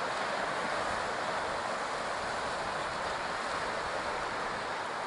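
Steady rushing noise of ocean surf at the shore.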